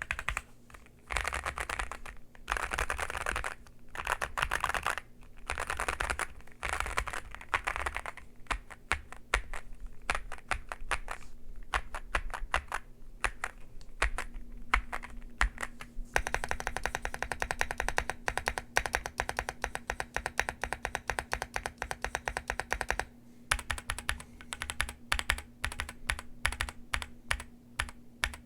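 Rainy75 mechanical keyboard being typed on: quick runs of keystroke clacks in bursts with short pauses between them, and a longer unbroken run of fast typing lasting about seven seconds, starting a little past halfway.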